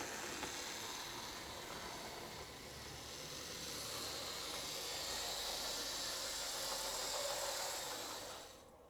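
HO scale model locomotive running on the track: a steady hissing noise from its small electric motor and wheels on the rails. It grows a little louder through the middle and cuts off suddenly shortly before the end.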